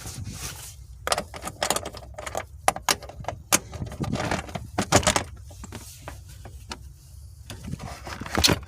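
Irregular clicking, clacking and rattling of metal and plastic parts and hand tools as a manual transmission shifter assembly is worked apart, busiest in the first half with a sharp knock near the end.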